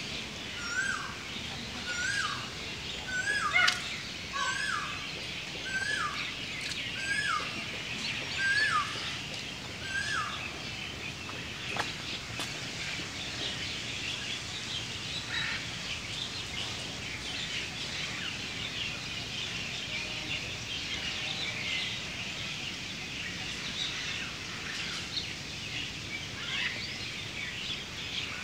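A bird repeats a short, hooked call at an even pace, slightly faster than once a second, and stops about ten seconds in. A dense chatter of small birds runs underneath throughout.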